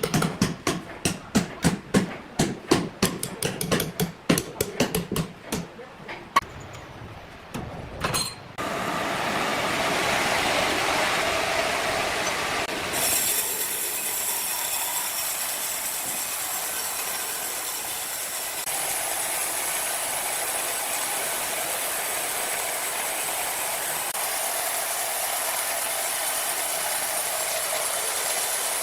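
Sawmill machinery: a rapid, uneven run of clattering knocks for about eight seconds, then a steady, hissing mechanical noise that turns brighter a few seconds later and holds on.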